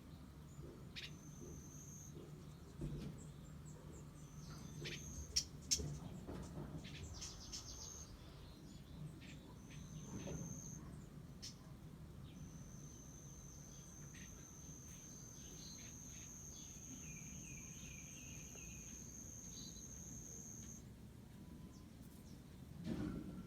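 An insect's steady high-pitched trill comes and goes in stretches, the longest running for about eight seconds in the middle. Faint bird chirps and a few short clicks and knocks sound alongside it.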